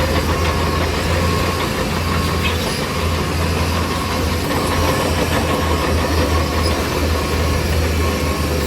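Diesel engine of a heavy earthmoving machine running steadily, a deep continuous drone with a mechanical rumble and rattle over it.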